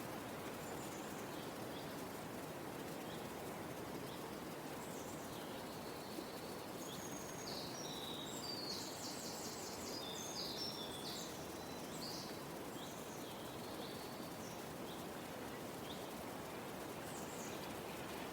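Small birds chirping and calling over a steady outdoor background hiss, with a quick rattling trill near the middle.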